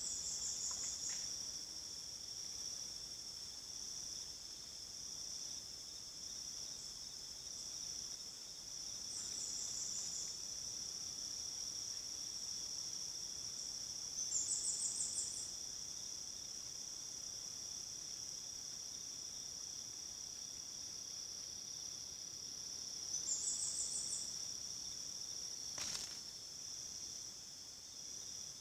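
Steady high-pitched insect chorus, a cricket- or cicada-like pulsing drone, with short, higher chirping phrases, likely a bird, cutting in about five times, loudest around the middle and again near the end. One sharp click sounds near the end.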